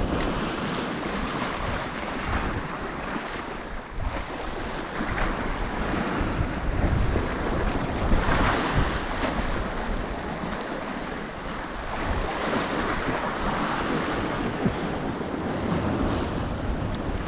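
Sea waves breaking and washing on a rocky shore, swelling every few seconds, with strong wind rumbling on the microphone.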